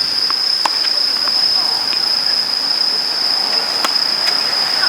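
Steady high-pitched insect drone, one unbroken tone throughout, with two sharp knocks about three seconds apart.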